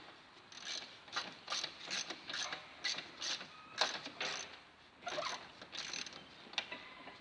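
Hand ratchet spanner clicking in short repeated strokes, roughly two a second, as a bolt is worked on a car body.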